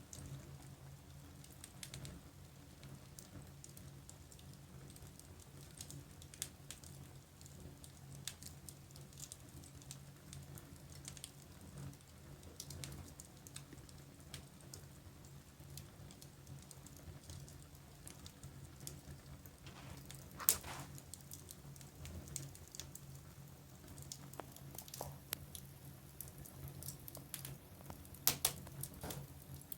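Wood fire in a fireplace crackling, with scattered small snaps and a sharper pop about two-thirds of the way through and a couple more near the end.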